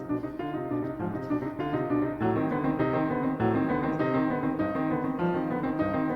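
Piano music playing, with notes struck in a flowing run.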